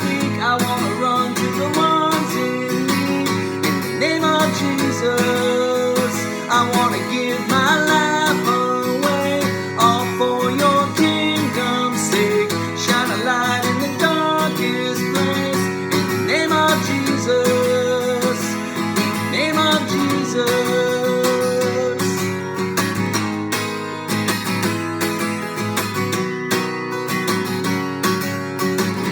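Contemporary worship song in an instrumental passage: strummed acoustic guitar and a band play under a wavering melody line.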